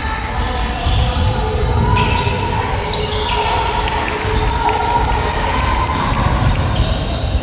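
Basketball game in a gym: a ball bouncing and players moving on the court, with spectators calling out, all echoing in the hall.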